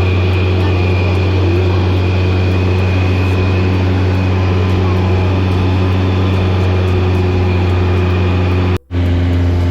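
Engine and propeller of a four-seat high-wing light plane droning steadily: a strong low hum with steady higher tones above it. A split-second dropout comes near the end.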